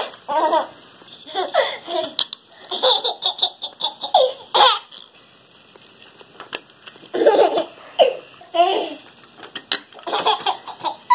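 Baby laughing hysterically in repeated bursts of belly laughs. A lull of about two seconds near the middle holds only a few faint clicks before the laughter starts again.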